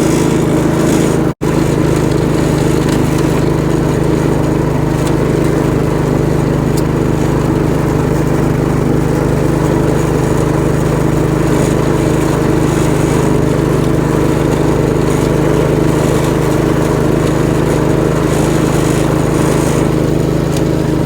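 Gravely 430 garden tractor engine running steadily at speed, driving a 38-inch snowblower, with one very brief break in the sound about a second and a half in.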